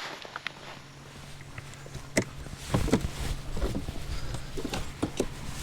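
Footsteps on snow and ice, with a string of sharp knocks from about two seconds in.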